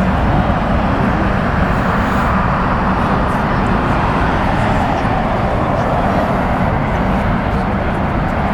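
Jet airliner engines running steadily at taxi power, a continuous loud rush with a low rumble underneath.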